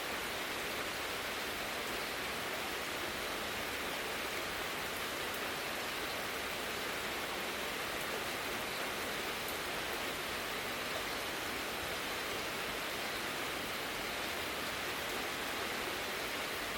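Heavy downpour of rain falling steadily, an even, unbroken hiss.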